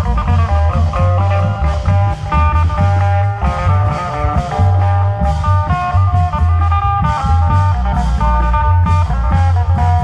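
Isan klong yao procession music: heavy, continuous drumming under a plucked-string melody.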